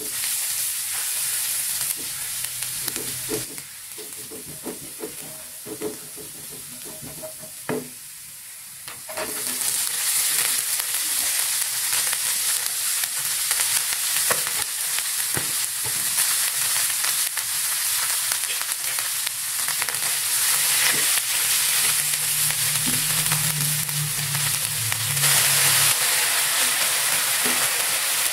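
Eggplant and bean sprouts stir-frying in a hot wok over high heat, stirred with a spatula. Quieter at first with scattered knocks and scrapes, then a loud, steady sizzle from about nine seconds in.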